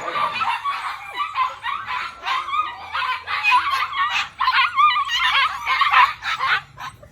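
Puppies whining and squealing, many high, wavering cries overlapping, stopping abruptly near the end.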